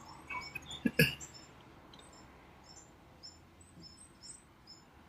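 Bird chirping: a string of short, high, downward-sliding chirps repeating every half second or so. There are two brief knocks about a second in.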